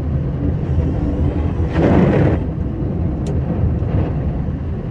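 Scania R560 truck's V8 engine and drivetrain running under load with a steady low rumble as it plows deep snow, heard from inside the cab. About two seconds in comes a brief, louder rushing surge, with a single short click a little later.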